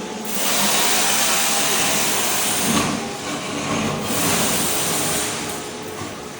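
Ride-on floor scraper's blade scraping thin-set mortar off a concrete slab: a loud, rough scraping noise that rises about a third of a second in, dips briefly around the middle and eases back to a lower machine hum near the end.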